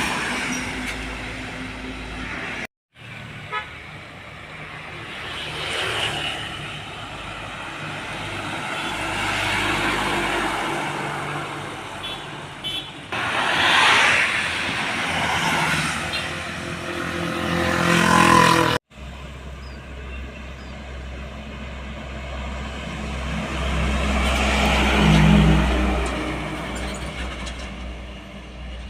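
Heavy trucks and buses driving past one after another, with diesel engines and tyre noise swelling as each goes by, and horn toots. The sound breaks off abruptly twice, about three seconds in and again past the middle.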